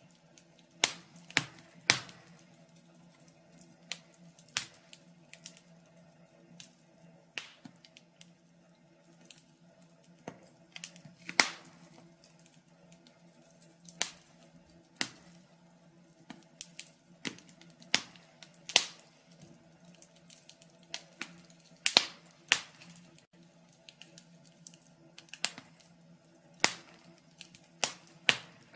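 Log fire crackling: irregular sharp pops and snaps of burning wood, some loud and many faint, over a faint steady hum.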